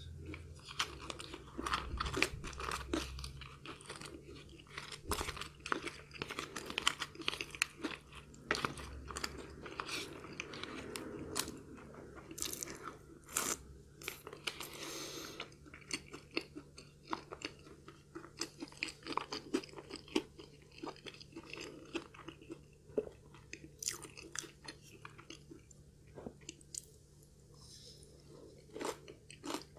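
Close-miked eating sounds: chewing with many small crunches and mouth clicks as a person eats forkfuls of food.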